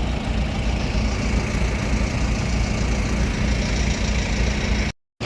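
A farm tractor's diesel engine running steadily at a low, even speed while the tractor fails to push a load of hay bales; the sound cuts out abruptly for a moment near the end.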